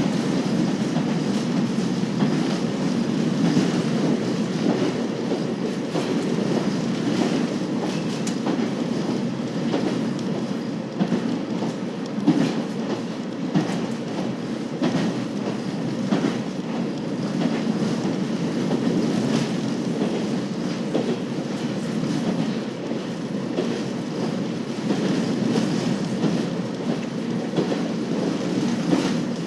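KiHa 40 series diesel railcar running along the line: a steady rumble of engine and wheels, with repeated irregular clicks as the wheels cross rail joints.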